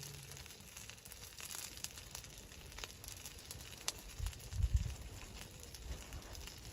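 Wood fire crackling, with sparse sharp pops and a few low thuds about two-thirds of the way through.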